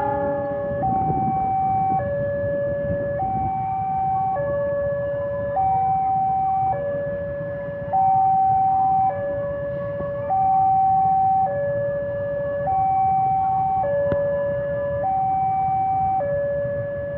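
Two-tone electronic warning alarm alternating between a higher and a lower note, each held a little over a second, over a low, steady rumble.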